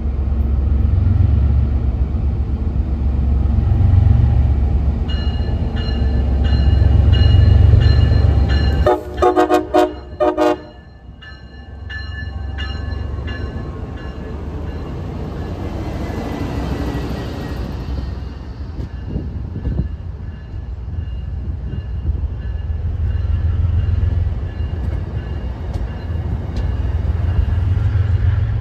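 MBTA diesel locomotive passing with its engine rumbling heavily and a repeated ringing going, and several short horn blasts about nine seconds in.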